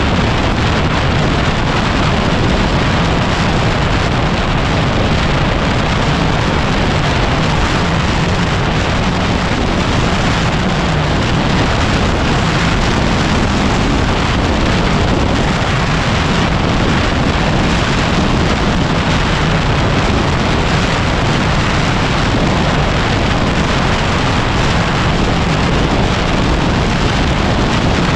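Heavy wind noise buffeting the microphone on a moving motorcycle, with a Yamaha WR250R's single-cylinder engine running steadily underneath.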